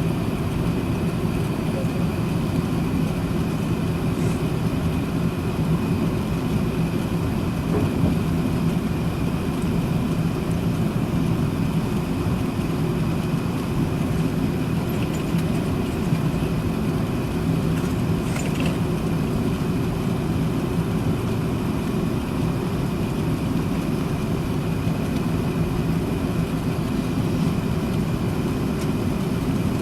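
Steady cabin noise inside an Airbus A380-861 taxiing: a low, even rumble of the Engine Alliance GP7270 engines at low thrust and the air-conditioning, with a steady low hum.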